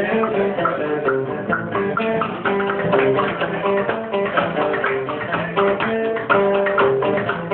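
Band music with plucked guitar over a bass line, an instrumental passage without singing, recorded on a phone.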